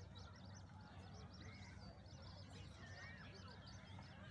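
Faint, constant chatter of many quick, high bird peeps, with a couple of short sliding calls about three seconds in, over a steady low hum.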